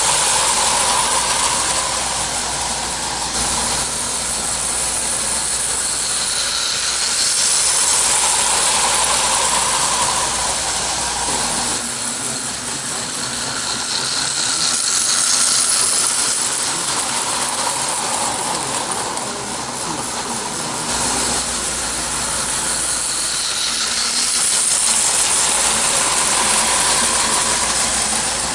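Prewar Märklin 0 gauge 0-4-0 electric locomotive with a high-voltage AC motor, running on about 30 volts around a tinplate track: a steady whirring and rail clatter that swells and fades every seven or eight seconds as the train circles past.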